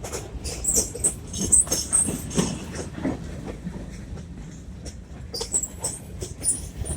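Freight train cars rolling past, their wheels clicking and clattering over the rail joints, with a few brief high-pitched squeals.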